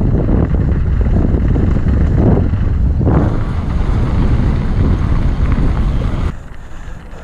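Wind buffeting the camera microphone over the rumble and rattle of a mountain bike rolling down a rough trail. The noise drops sharply about six seconds in.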